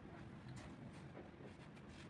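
Near silence: faint room tone with a low hum and a few soft ticks.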